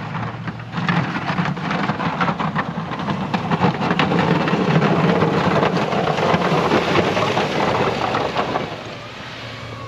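Plow truck pushing snow and ice, the blade scraping across icy pavement with a loud, rough crackle over the engine running; it eases off near the end.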